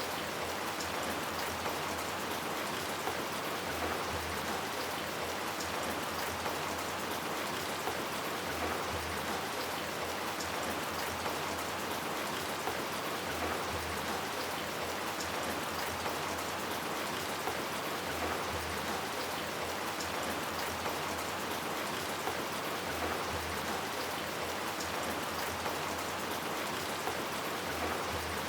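Steady rain, with individual drops ticking on surfaces. It keeps an even level throughout.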